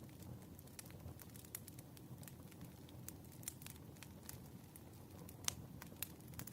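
Wood fire crackling: an irregular run of small pops and snaps over a soft low rumble, with one sharper pop about five and a half seconds in.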